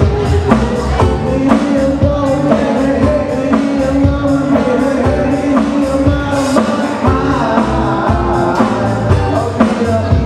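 Live band music with a steady drum beat under sustained pitched instrument notes.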